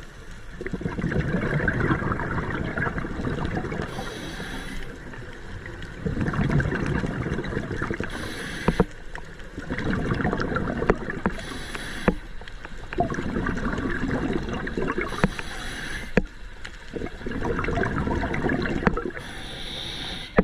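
Water sloshing and splashing close to the microphone, swelling and easing in surges every three to four seconds, with a few sharp knocks.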